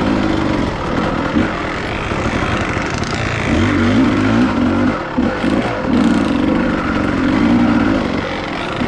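Dirt bike engine on a trail ride, its pitch rising and falling as the throttle is worked, with some steadier held stretches, over constant wind and rushing noise.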